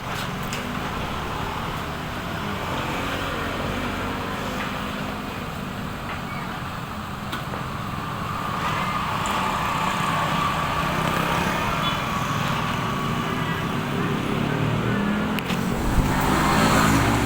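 Strong wind gusting across open ground and rumbling on the microphone, a steady noise that grows a little louder in the second half.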